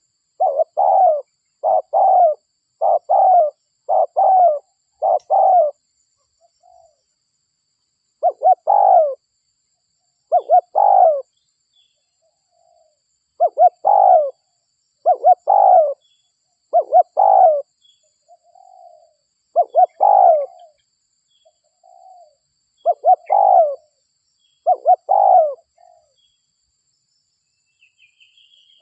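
Spotted dove (derkuku) cooing loudly in repeated coo phrases, used as a lure call: a quick run of phrases in the first few seconds, then pairs of coos with short gaps between.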